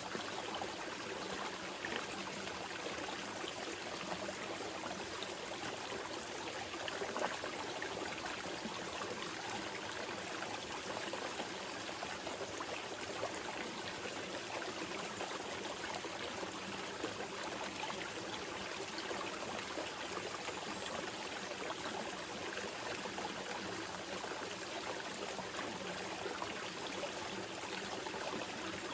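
Small mountain river flowing steadily over rocks, a continuous rushing babble with small splashes throughout.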